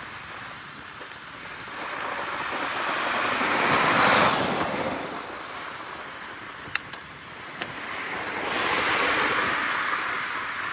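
Two vehicles passing one after the other, each swelling up and fading away; the first, louder one carries a high whine that falls in pitch as it goes by. Two sharp clicks come between the passes.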